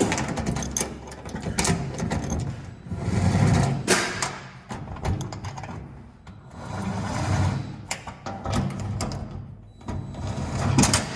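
Handheld power tool motor running in several bursts, a few seconds apart, with sharp clicks and knocks of metal between them.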